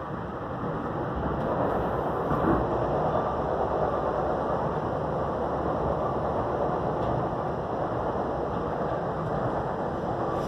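Passenger train running, a steady rumble and rail noise with no breaks.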